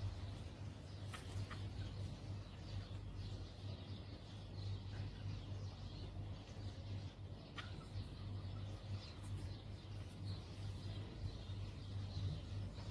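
Bulbul giving short, faint chirps, with a few sharp clicks, over a steady low hum.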